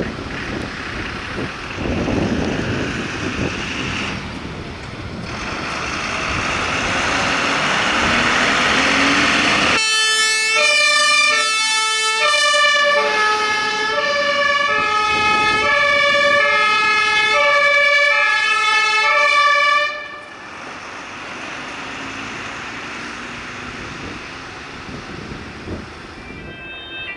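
Passing vehicle and road noise, then a German two-tone emergency-vehicle siren (Martinshorn) alternating between its two notes for about ten seconds and cutting off suddenly. Near the end another two-tone siren starts up.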